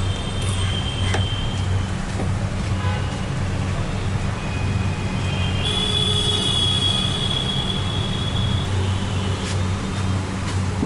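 Busy city street traffic: a steady low rumble of vehicles, with a long high-pitched tone from about six to nine seconds in.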